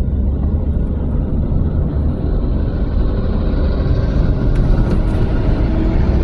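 A vehicle driving on the road: a steady low engine and road rumble, with a rushing hiss that builds over the second half and falls away at the end, like another vehicle passing.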